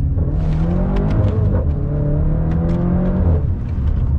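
A car engine accelerating hard, its note rising steadily for about three seconds and then dropping away, with sharp crackles over it.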